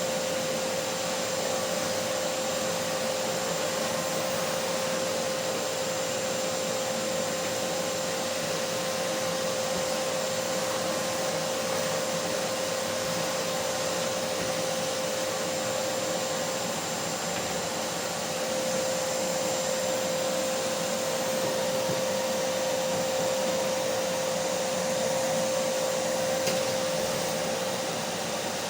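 Vacuum cleaner running steadily: an even rushing noise with a steady mid-pitched motor whine, unchanging throughout.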